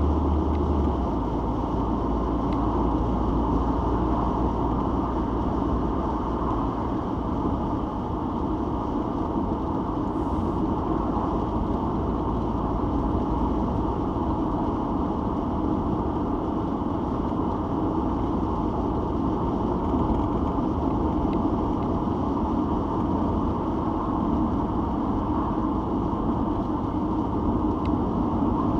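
Citroen XM being driven, with steady engine and road noise. A low drone at the bottom drops away in steps over the first several seconds.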